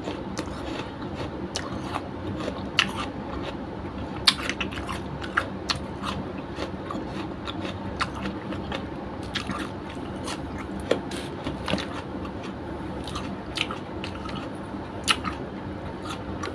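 Close-miked chewing with the mouth closed: scattered soft wet smacks and light crunches, irregularly spaced, over a low steady hum.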